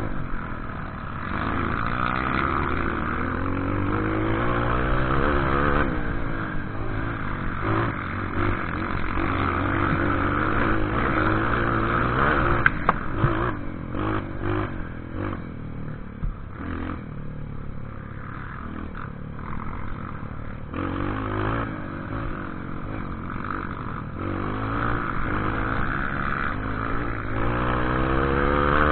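Engine of an off-road vehicle on a forest trail, revving up and down over and over as it climbs and rides over rough ground, with a few sharp knocks about halfway through.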